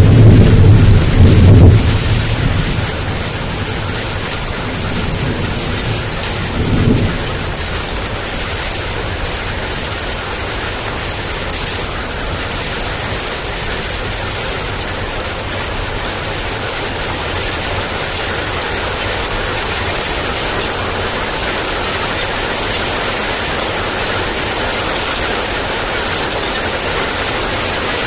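Heavy rain falling in a steady hiss. Thunder rumbles loudly for the first couple of seconds and fades, and a shorter, softer rumble comes about seven seconds in.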